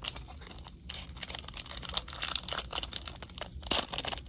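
Crinkly wrapper of a Topps baseball card pack being torn open and crumpled by hand, an irregular crackling that picks up after about a second and grows busier toward the end.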